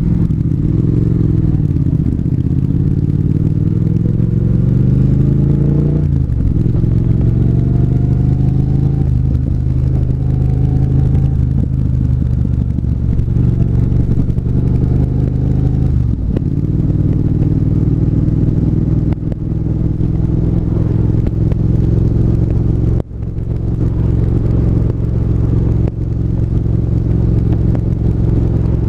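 Triumph 1200 cc parallel-twin motorcycle engine under way: it climbs in revs for about six seconds, drops suddenly at a gear change, pulls on, shifts again about sixteen seconds in, then runs steadily with a few brief dips in revs.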